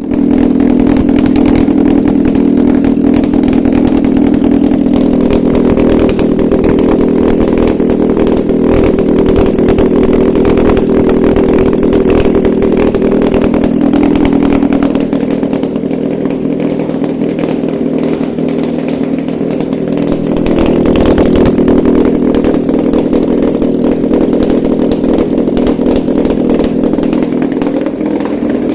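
Mitsubishi 4B12 2.4-litre inline-four petrol engine running on a test stand, steady throughout. It drops a little in level about halfway through and swells again a few seconds later before settling.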